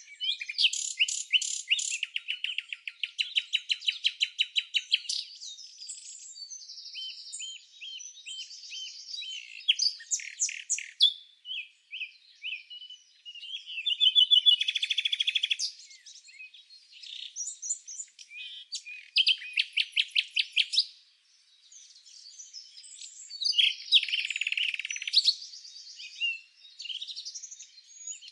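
Songbirds chirping and trilling: quick runs of rapidly repeated high notes come several times, with scattered shorter chirps between them.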